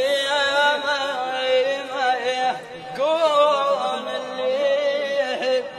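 A single voice chanting an unbroken vocal line of long held notes that bend and waver in pitch, in the manner of Arabic chanted poetry, breaking off just before the end.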